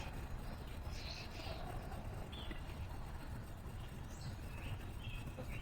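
Wild songbirds chirping briefly now and then, a handful of short calls over a steady low background rumble.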